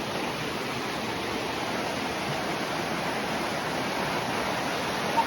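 Rushing water of a stream flowing steadily.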